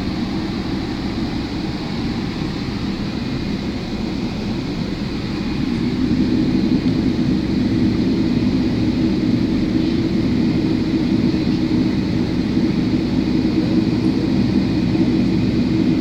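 Boeing 777 cabin noise while taxiing after landing: a steady rumble of engines and airflow that grows louder about five seconds in.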